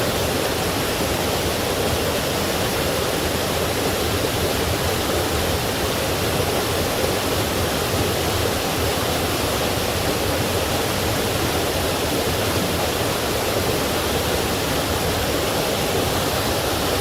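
Forest stream and waterfall water flowing and splashing over rocks, a steady rushing sound.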